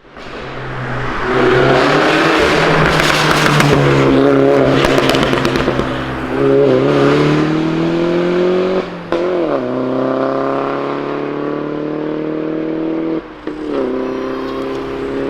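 Mini Cooper S engine through a decat downpipe exhaust, revving with crackling from the exhaust in the first several seconds, then pulling up through the revs with the pitch dropping sharply at two gear changes, about nine and thirteen seconds in.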